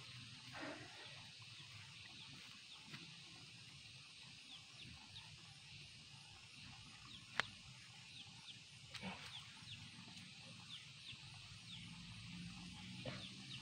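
Quiet outdoor ambience: a small bird repeats short falling chirps, one or two a second. Faint scrapes of fingers digging loose soil, and one sharp click about seven seconds in.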